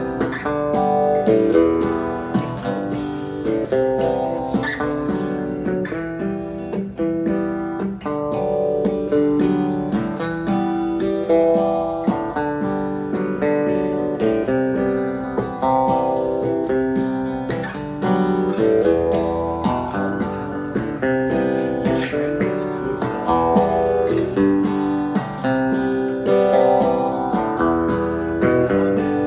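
Instrumental acoustic guitar music, strummed and picked steadily, with no singing.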